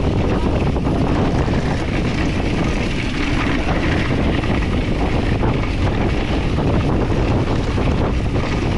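Steady wind rush buffeting the microphone of a mountain bike moving at speed, with tyre and trail rumble underneath.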